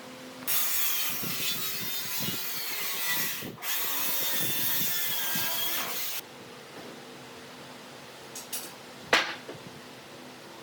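A handheld power tool running in two spells with a short break between them, about six seconds in all, its faint whine wavering as it works. A few light clicks and one sharp knock follow near the end.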